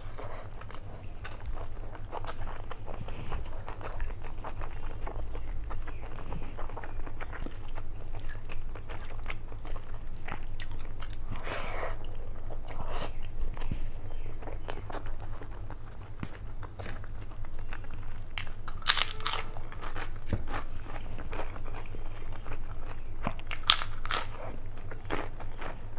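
Close-up mouth sounds of a person eating mutton biryani by hand: chewing with wet smacks and small crunches. There are two louder, sharper mouth sounds, one about two-thirds of the way through and one near the end, over a low steady hum.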